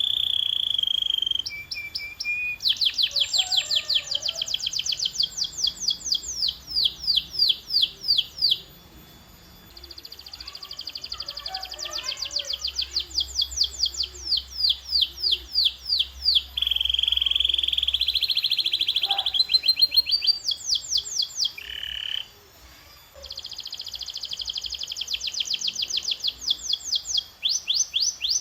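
Canary singing its song: runs of fast, evenly repeated high sweeping notes lasting a few seconds each, linked by short steady whistled rolls, with brief lulls about a third of the way in and again near the end.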